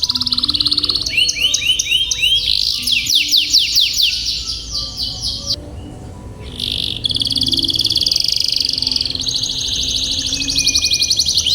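Domestic canary singing long rolls: fast trills of rapidly repeated high notes, breaking off for about a second near the middle and then starting again. A slow low melody plays faintly underneath.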